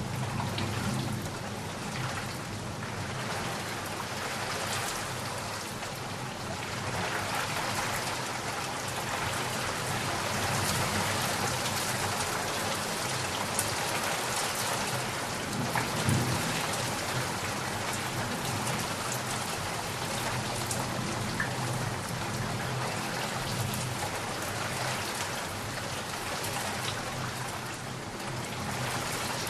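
Steady rain falling, a dense hiss of drops, with low thunder rumbling underneath and a brief louder rumble about halfway through.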